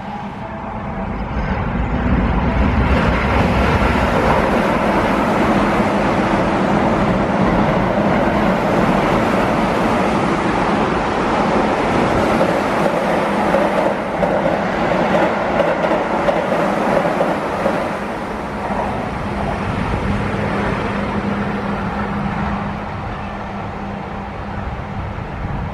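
Keihan 8000-series limited express electric train passing at speed: a steady rush of wheels on rails that builds over the first couple of seconds, holds loud for about fifteen seconds and eases off after about eighteen seconds. Near the end a faint steady hum accompanies the next train approaching.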